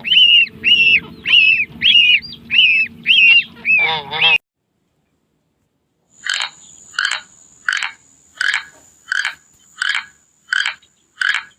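Repeated honking bird calls, about two a second, cut off abruptly about four seconds in. After a couple of seconds of silence comes a run of short, evenly spaced croaks, about one and a half a second, with a thin steady high whistle behind them.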